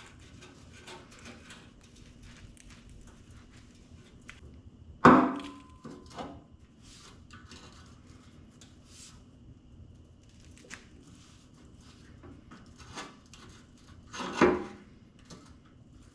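Two loud hammer strikes on the steel sheet-metal case of a Lincoln AC180S welder, about nine seconds apart, the first ringing briefly, amid light knocks and handling clatter. The blows are straightening a corner of the case that is bent down.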